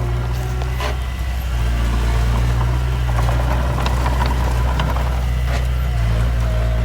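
Heavy earthmoving machine's diesel engine running steadily at a constant low drone, with a couple of sharp short knocks about a second in and near the end.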